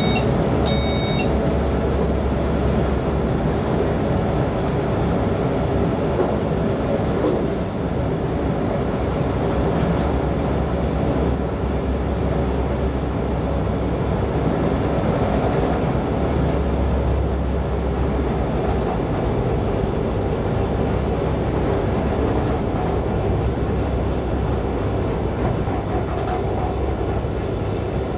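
Electric multiple-unit train running along the line, heard from inside the driver's cab: a steady rumble of wheels on rail with a low traction hum. A short electronic beeping in the cab stops about a second in.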